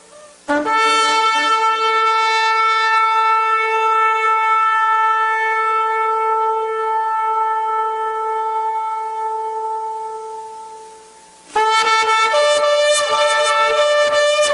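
Shofar (ram's horn) sounded in one long, steady held blast that fades away after about eleven seconds. A second, rougher blast with a rapid wavering break starts near the end.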